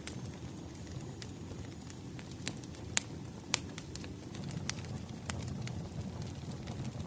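Wood fire crackling: a steady low rumble of burning logs with irregular sharp pops and snaps, a few louder ones near the middle.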